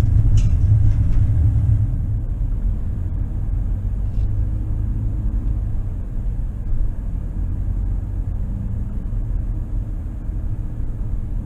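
Steady low rumble of a pickup truck's engine and tyres while driving, heard from inside the cab.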